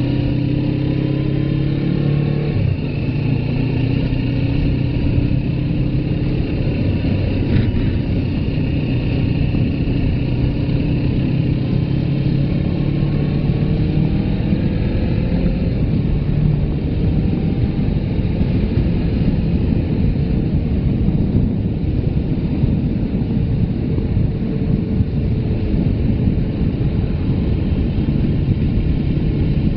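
Suzuki GS500F parallel-twin engine running under way, its pitch rising and falling with throttle and gear changes, over a steady low rush of wind and road noise.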